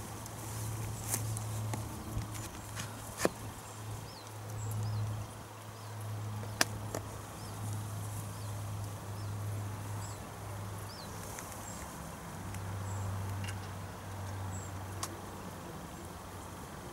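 A low, steady hum that swells and fades over several seconds, broken by a few sharp clicks. A small bird's short high chirps repeat every second or so.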